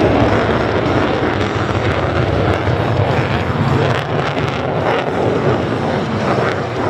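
Jet noise from USAF Thunderbirds F-16 Fighting Falcon fighter jets: a loud, steady rush that eases slightly about four seconds in.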